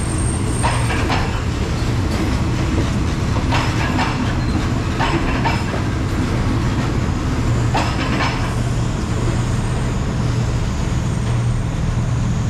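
Passenger train coaches rolling slowly past: a steady low rumble of the wheels on the rails, with paired clacks as each bogie's wheels cross rail joints, recurring every second or few.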